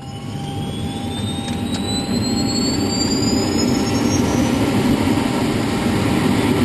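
Helicopter turbine engine running, a loud steady rushing noise that builds over the first two seconds. Above it are two high whines, one rising and one falling in pitch, that meet about four seconds in.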